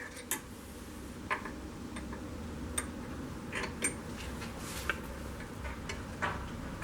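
A hammer tapping a homemade centre punch against the IZh Jupiter 3 engine casing to mark mounting holes for a generator: about six sharp, separate taps roughly a second apart.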